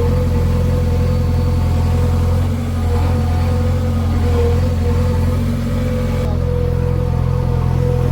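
Heavy diesel engine of a backhoe loader or farm tractor running steadily at a constant speed: a deep, even drone with a steady higher tone over it.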